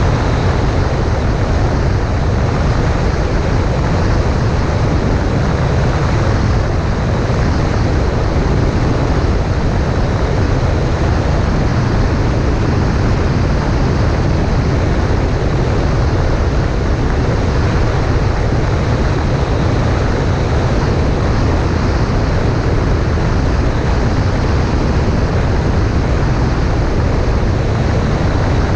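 Cessna 140A light plane's engine and propeller droning steadily, mixed with rushing wind noise, unchanging throughout.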